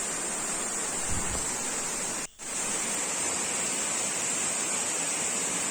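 Waterfall's steady rush of falling water, dropping out for a moment about two seconds in.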